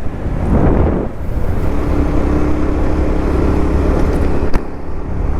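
Motorcycle engine running steadily while riding, with a constant low rumble of wind and road noise; a brief surge of noise about a second in, and a single sharp click about four and a half seconds in.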